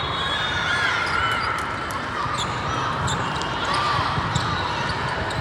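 Busy volleyball hall: a steady din of many voices, with sneakers squeaking on the court floor and balls being hit and bouncing.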